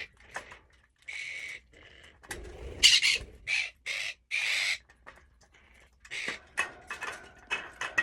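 Pet parrots giving a string of harsh, screeching calls, about five in a row, loudest around the middle, followed by a few short light clicks near the end.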